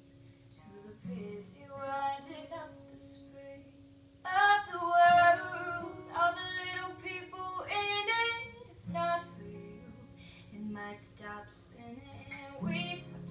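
Teenage girl singing to her own acoustic guitar, quiet at first, then with louder sung phrases from about four seconds in.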